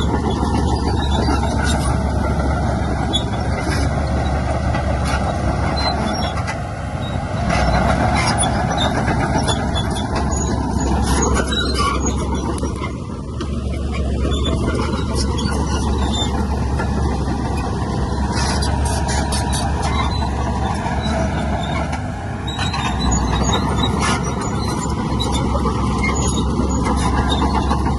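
Heavy diesel engines of earthmoving machines, a dump truck and a bulldozer, running steadily under load, with scattered short metallic clicks and clanks.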